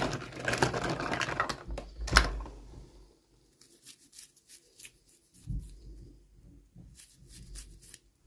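Crinkly packaging being handled and torn open for about two seconds, with a sharp click near the end of it. Scattered light clicks and soft handling taps follow.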